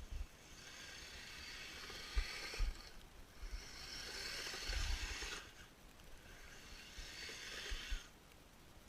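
Kyosho Blizzard RC snowcat's electric drive and tracks running in three bursts of throttle, a whining hiss that swells and falls away each time, with scattered low thumps.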